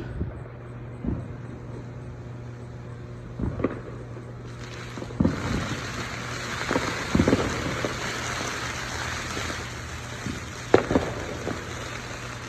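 Fireworks going off at a distance: a string of booms at uneven intervals, the loudest near the end, over a steady low hum. About four and a half seconds in, a hissing, crackling noise comes in and carries on under the later booms.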